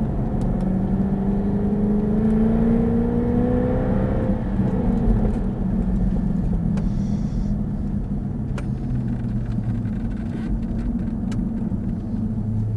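The Jaguar F-Type's supercharged engine, heard from inside the cabin. It pulls up through the revs for about four seconds, then drops off as the driver lifts and the car slows for a corner.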